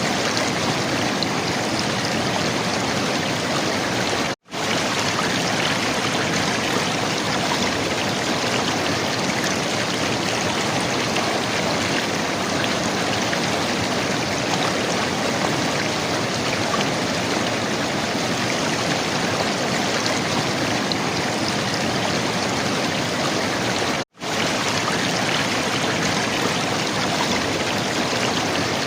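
River water flowing and gurgling steadily. The sound drops out completely for an instant twice, a few seconds in and again near the end.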